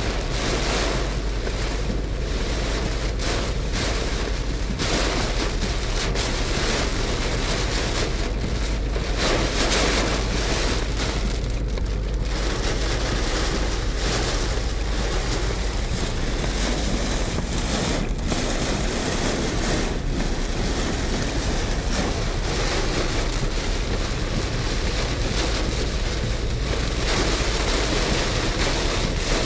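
Heavy storm rain and wind on a moving car, heard from inside the cabin together with the tyres' road noise: a steady rushing with a low rumble underneath.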